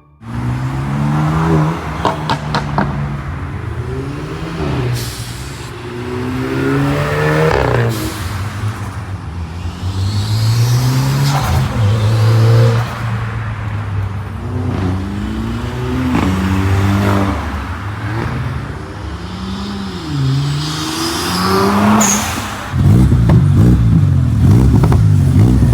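Modified car engines revving again and again, each rev rising and falling in pitch, with a few sharp cracks about two seconds in. About 23 seconds in a louder, rougher exhaust takes over.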